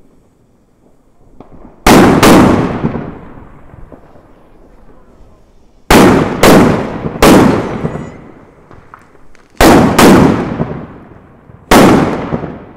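Loud firework bangs from a homemade fireworks mat: eight sharp reports in groups of two, three, two and one, each trailing off in a long echoing decay.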